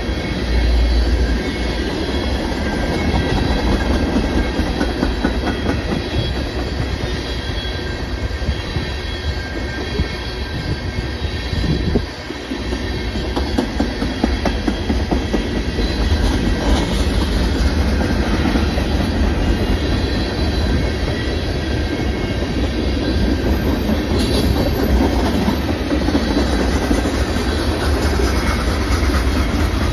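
Freight train of tank cars and gondolas rolling past close by: a steady rumble of steel wheels on the rails, with occasional clicks and a faint high wheel squeal. The sound dips briefly about twelve seconds in.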